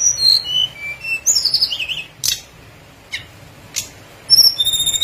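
Tledekan gunung singing: a quick run of whistled notes stepping down in pitch, then warbling phrases, with a few sharp clicks in between, and a longer high trill starting near the end.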